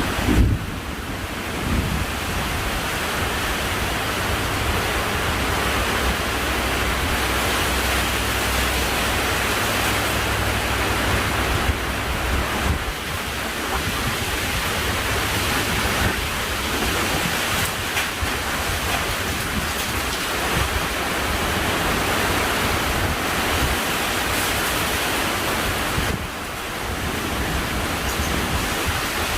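Heavy rain pouring steadily in a windy thunderstorm. A sudden loud bang comes about half a second in, and a low rumble runs under the rain for the first dozen seconds or so.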